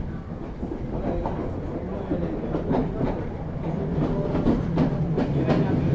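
Train wheels clacking over rail joints under a moving carriage, heard from its open doorway, over a steady running rumble. A low steady drone grows louder through the second half as an oncoming blue-and-white diesel multiple unit comes alongside on the next track.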